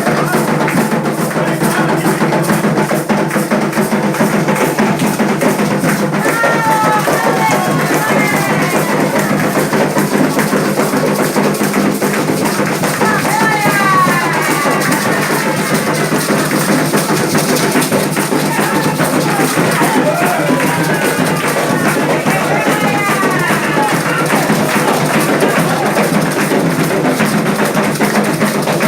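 Candomblé ritual drumming: atabaque hand drums playing a fast, steady rhythm, with voices singing over them at times.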